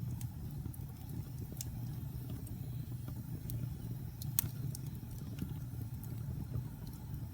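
Wood fire crackling in a fireplace: a steady low rumble of burning with scattered sharp pops and snaps, the loudest about four and a half seconds in.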